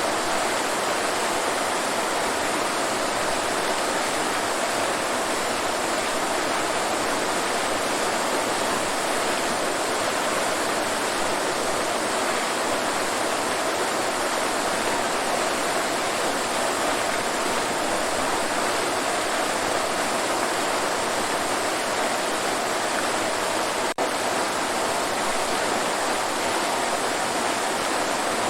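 Waterfall: a steady, even rush of falling water, with a momentary break about four seconds before the end.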